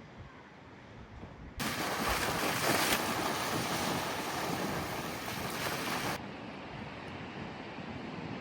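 Ocean surf: a steady rush of waves that comes in suddenly about a second and a half in and drops back to a fainter rush about six seconds in.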